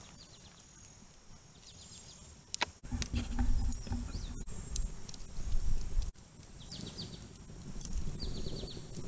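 Outdoor ambience: a steady high insect drone, with several short runs of rapid chirps from birds. From about three seconds in, a louder low rumble comes and goes.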